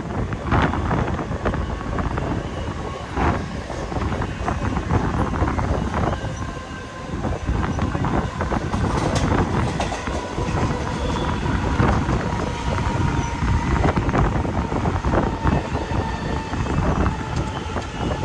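A Mumbai suburban local train, an electric multiple unit, running along the track with the rattle and clatter of its wheels over the rails. A thin steady whine comes through in the middle.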